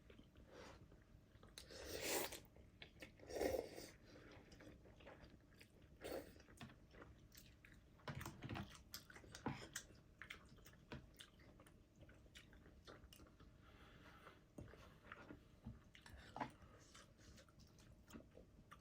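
Faint chewing of noodles with soft mouth clicks, and a few brief louder bursts of eating noise.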